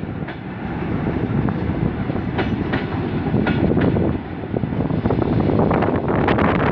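A suburban train hauled by a ChME3 shunting diesel locomotive rolling past: a steady rumble with wheels clacking over the rail joints.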